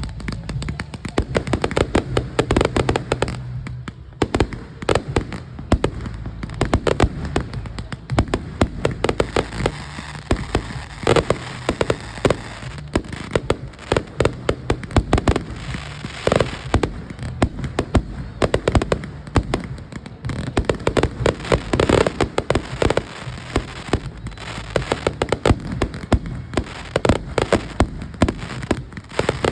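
Aerial fireworks going off in a dense, continuous barrage of rapid bangs and crackling, with no pauses.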